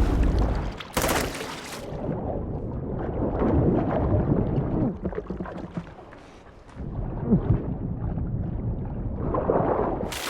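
Water sloshing and splashing in a film soundtrack, with a short loud crash about a second in and a quieter stretch past the middle.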